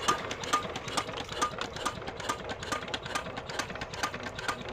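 Small single-cylinder engine of a shallow tube-well irrigation pump running at idle just after being hand-cranked, with a steady knocking beat of about four to five strokes a second.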